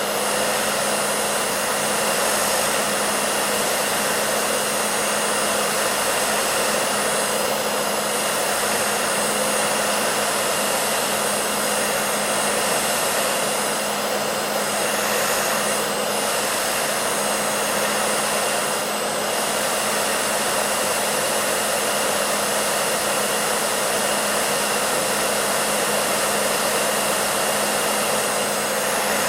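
Hair dryer running steadily: an even rush of blown air with a constant motor hum and a faint high whine.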